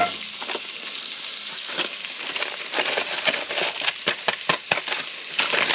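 Chopped onions and garlic frying in olive oil in a hot pan: a sudden sizzle as they go in at the start, then a steady sizzle with crackling as they sweat.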